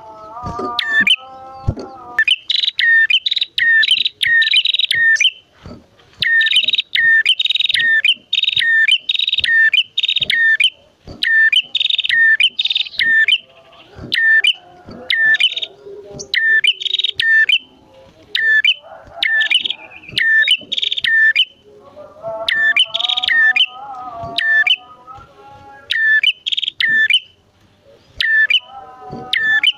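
Prenjak (prinias), a male and female, calling in loud, fast runs of sharp, repeated chirps, each run lasting a few seconds with short breaks between. A lower, wavering twitter joins in at the start and again about two-thirds of the way through.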